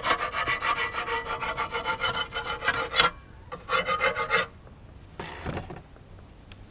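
Rapid back-and-forth scraping of oily dirt off the side of a BMW E36 engine. It stops about three seconds in, then resumes for about a second before stopping again.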